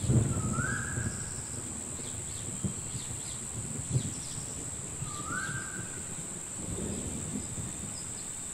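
Wired garden hoses being handled and bent together by hand: soft rubbery rustling and knocks, loudest at the start. Under it runs a steady high-pitched chirring, and there are two short rising chirps, about half a second in and about five seconds in.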